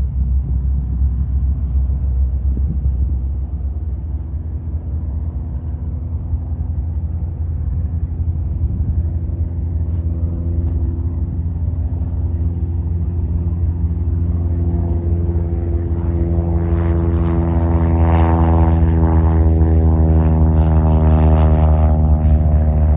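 Propeller drone of a Cessna 172S Skyhawk SP's four-cylinder Lycoming IO-360 engine: a steady, low, pitched hum. It grows steadily louder through the second half and becomes fuller and brighter over the last several seconds.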